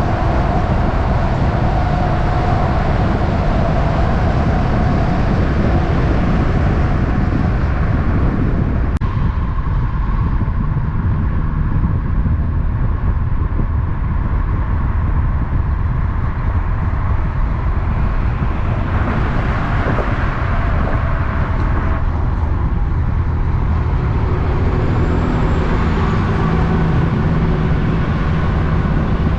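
Steady road-vehicle noise: a continuous low engine and tyre rumble from heavy road traffic.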